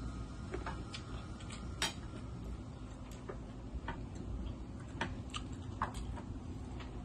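Eating sounds: irregular, sharp mouth clicks and smacks while chewing rice and pork adobo eaten by hand, over a steady low hum.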